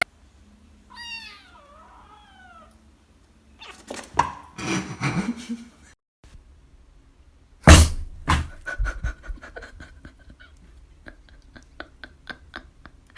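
A cat meowing twice, in rising and falling calls. Knocks follow, then a loud thump and a run of quick clicks.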